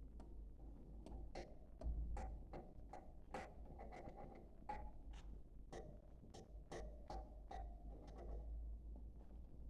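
Budgerigars chirping and chattering: a quick run of short, sharp chirps, several a second, faint, over a steady low hum.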